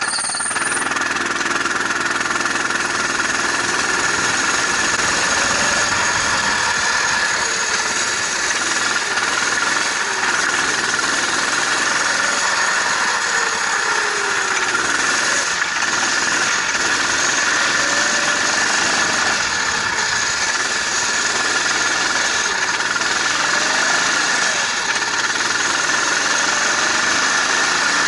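Vehicle engine catching right at the start, then idling steadily with a rough, knocking beat and no revving.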